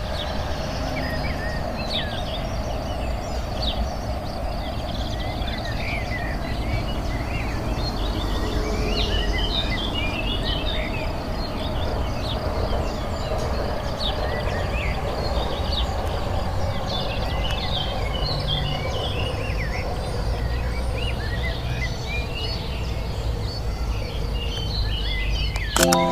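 Many small birds chirping and twittering, with short rising and falling calls scattered throughout, over a steady low outdoor rumble.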